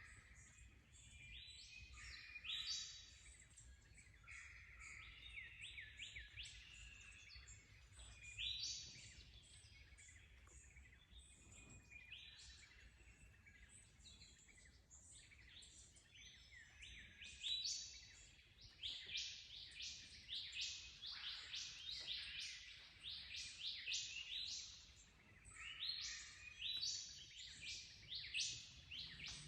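Several wild birds singing and calling over one another in a busy run of short high chirps and trills, busiest in the second half, over a faint low background rumble.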